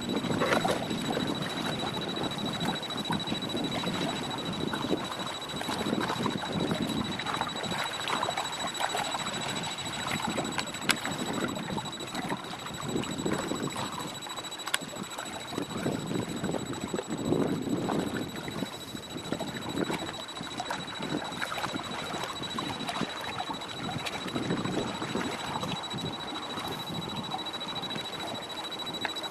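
Gusty wind on the microphone and choppy water sloshing in irregular surges, with a steady high-pitched whine alongside.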